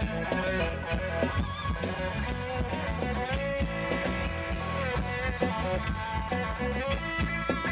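Live rock band playing an instrumental passage: electric guitar over bass and a steady drum beat, with no singing.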